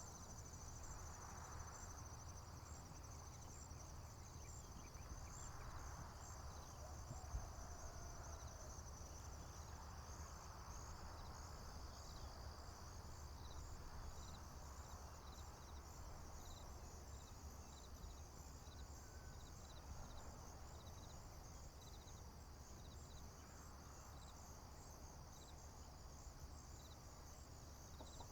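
Faint chorus of crickets chirping in dense, continuous high trills, with one insect adding short regular chirps in the second half. Underneath are a steady low rumble and soft swells of rushing noise that come and go every few seconds.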